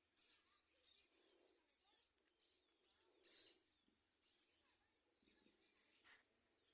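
Faint bird chirps, short and scattered, the clearest about three seconds in.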